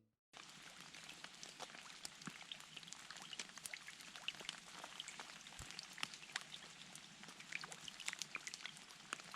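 Faint patter of snowmelt dripping from the trees, many small irregular drips that sound like light rain.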